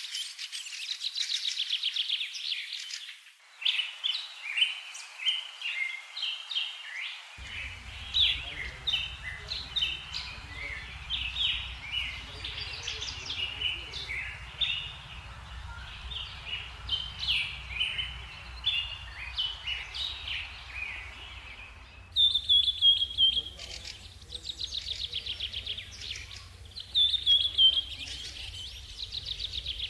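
Small birds chirping and calling in quick, overlapping notes, with fast trills at the start and again in the last third. A steady low hum sits beneath from about a quarter of the way in.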